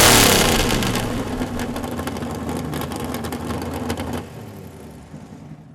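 Car engine loud from a rev at the start, then settling down and fading away over the next few seconds until it has almost died out near the end.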